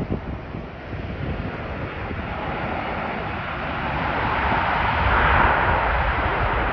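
Jet engines of a Boeing 737 MAX 9 running, the noise swelling to a peak about five seconds in, with a faint whine on top. Wind buffets the microphone at the start.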